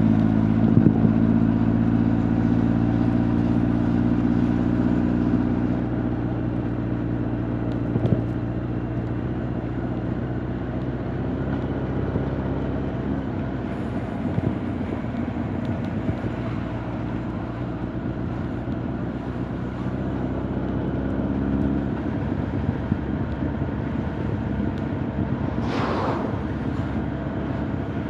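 Honda CB1300 Super Bol d'Or's inline-four engine and exhaust running while riding, heard through the rider's jacket. The note holds steady for the first several seconds, then grows softer, with a brief higher-pitched sound near the end.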